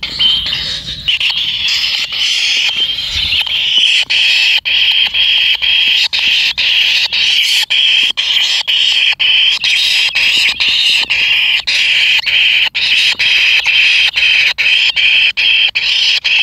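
Kingfisher nestlings begging in the nest, a loud continuous harsh buzzing chorus broken by many very short pauses.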